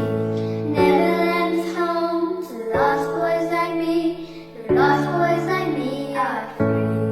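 A group of young girls singing a slow ballad over instrumental accompaniment, whose held chords change about every two seconds.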